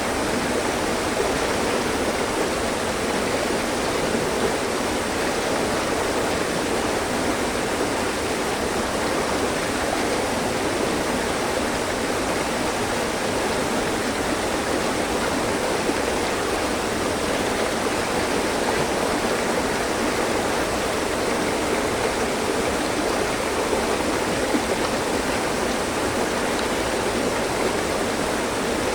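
Mountain stream flowing, a steady rushing and burbling of water over rocks.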